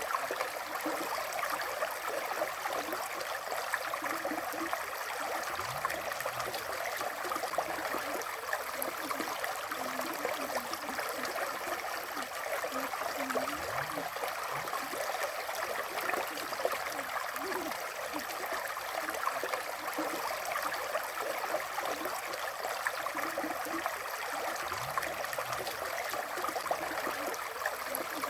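River water flowing, a steady unbroken sound of running water.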